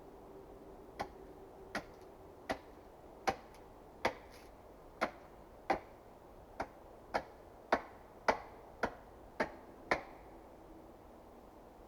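A hand tool striking wood in a run of about fourteen sharp knocks, roughly two a second, stopping about ten seconds in.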